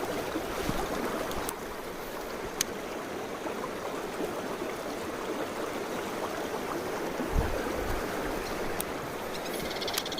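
Mountain stream water flowing over rocks in a steady rush. A few faint clicks and a short low thump about seven seconds in.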